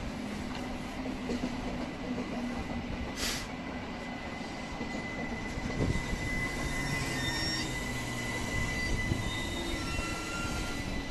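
SBB passenger train rolling along the platform track, wheels grinding on the rails with high squeals coming and going from about halfway through. There is a brief hiss about three seconds in.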